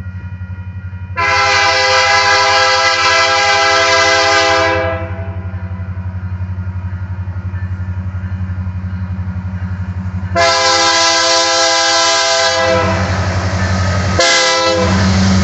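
Diesel locomotive air horn, a chord of several notes, sounding the grade-crossing signal: two long blasts, a short one, and the final long blast starting near the end. Under it runs the steady low rumble of the passing locomotive.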